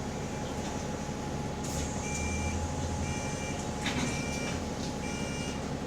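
Inside a bus, a high electronic beep repeats about once a second, five times, after a short hiss of air about a second and a half in: the door warning as the pneumatic doors close. The engine runs steadily underneath with a faint steady whine.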